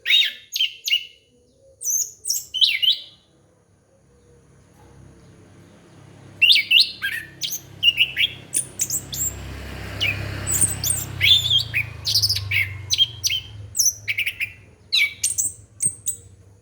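Orange-headed thrush singing: rapid phrases of sharp chirps and slurred whistles in bursts, with a gap of about three seconds after the first few phrases. A low hum and faint hiss come up under the song in the second half.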